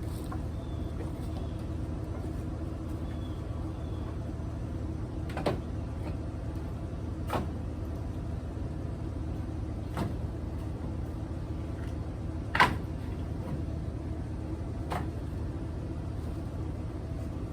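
Vehicle engine idling steadily, with five sharp knocks of split firewood pieces thrown into a truck bed, the fourth the loudest.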